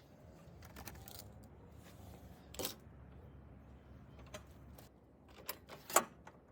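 Scattered light clicks and metallic clinks from hardware and tools being handled, a few seconds apart, the sharpest one near the end.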